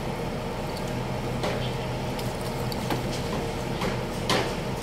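Construction-site background: a steady engine hum with scattered knocks, the sharpest one near the end.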